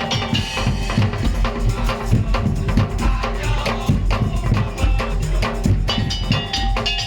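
A Madurese percussion ensemble playing a fast, dense rhythm of drums and struck percussion, with pitched tones held over the beat.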